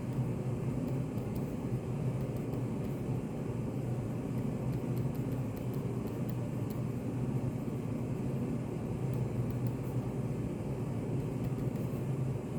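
Steady low rumble of study café room noise, even and unchanging, with faint scattered light ticks.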